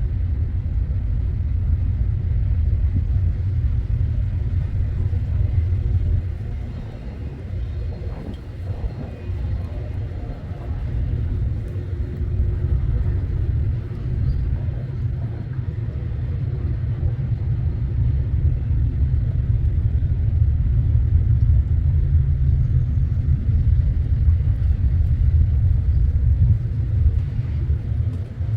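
Deep, steady rumble of a freight train, its loudness easing a little partway through and building again toward the end.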